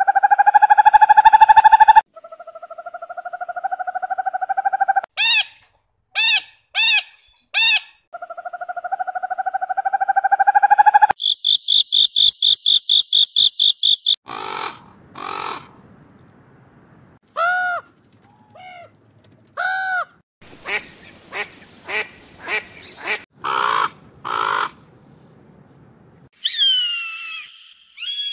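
A string of different bird calls, one clip after another: long rising calls, a fast run of high pulsed notes, short arching squawks, and falling whistles near the end.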